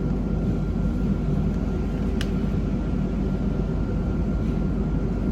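Steady low rumble of a moving vehicle, with a faint steady high whine over it. There are two brief clicks, one about two seconds in and one at the end.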